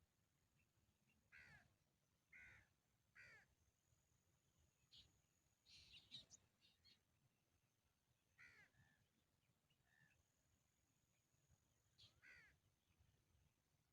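Faint short bird calls, repeated about seven times at irregular intervals, with a brief cluster of higher, thinner notes about six seconds in.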